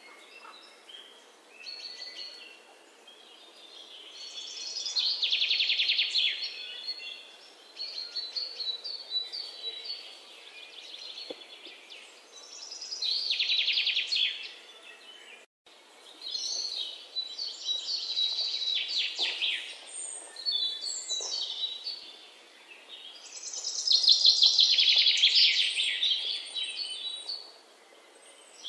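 Birds chirping and singing, with loud bouts of rapid trills that come and go every several seconds.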